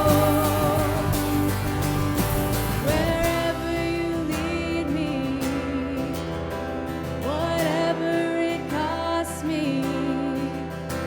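Live worship band music: a melody line slides up into its notes a few times over sustained chords and a steady bass.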